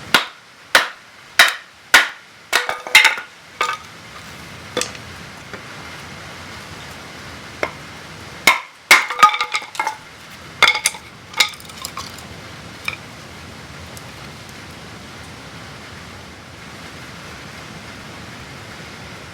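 Batoning firewood: a knife blade struck on its spine with a baton to split wood, giving sharp knocks with a short metallic ring, about one a second at first and then in irregular clusters. Steady rain hisses behind.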